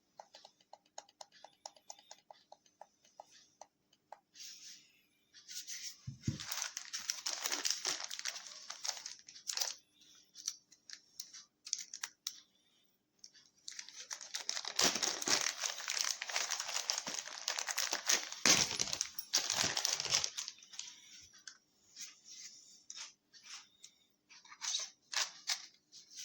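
Handling noise: a run of quick light clicks, then two longer spells of crinkling and rustling, about six and fourteen seconds in, with scattered clicks after.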